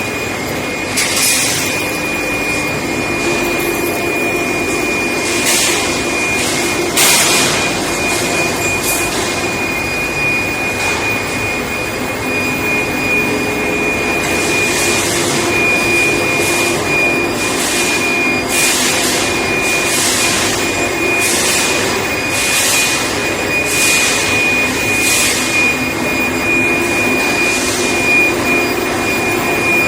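Threaded rebar induction quenching and tempering line running: a steady machine noise with a constant high whine, and about a dozen short hissing bursts at irregular intervals.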